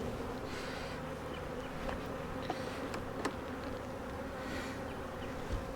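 Many honeybees buzzing in a steady hum around an open, crowded hive, with a few light clicks.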